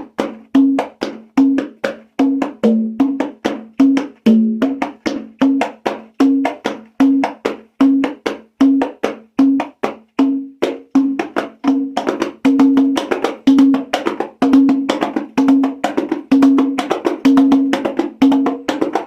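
Compact conga with a synthetic head played by hand in a steady rhythm: pitched open tones ringing between sharp slaps. About twelve seconds in the playing gets busier and brighter.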